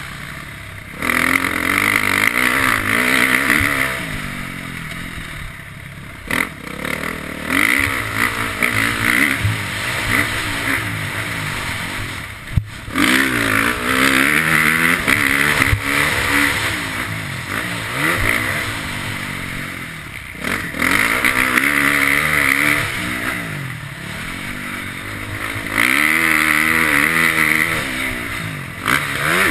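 KTM motocross bike's engine revving hard and easing off over and over as the throttle is opened and closed, its pitch rising and falling. There is a sharp clack about midway through.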